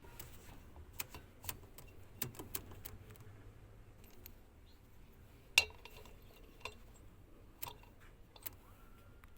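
Scattered light clicks and metallic clinks of small hard objects being handled, about a dozen at irregular intervals, the sharpest about five and a half seconds in.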